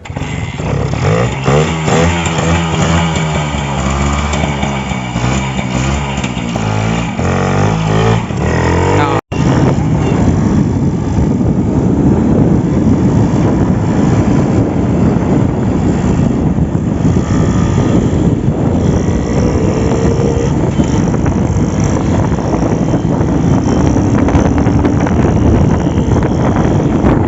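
Two-stroke engine of a modified Suzuki Samurai motorcycle revving up and down repeatedly as it is ridden off. After a sudden brief cut, it runs on under a steady rush of wind on the microphone while riding.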